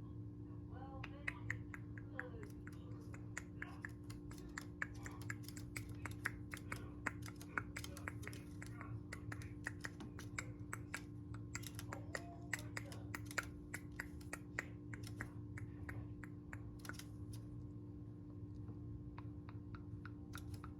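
Pet bird pecking and clicking about on a dresser: rapid, irregular sharp clicks and taps, several a second, over a steady low electrical hum, with a few faint soft chirps.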